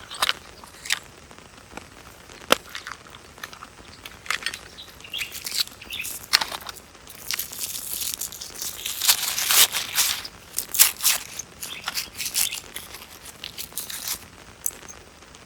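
Irregular rustling and crinkling with many sharp clicks, busiest in the middle of the stretch.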